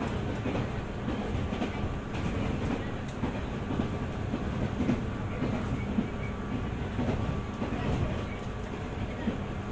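A JR 205 series electric multiple unit running along the line: a steady rumble of wheels on rail, with a few sharper clacks from rail joints and a faint steady hum.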